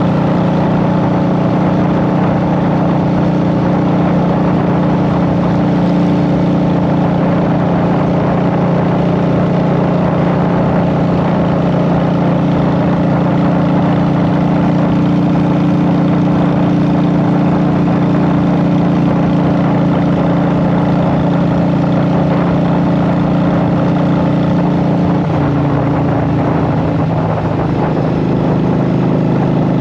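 Honda Shadow VT750's V-twin engine with Vance and Hines Short Shot exhaust pipes, running steadily under way. About 25 seconds in the engine note drops and then holds at a lower pitch.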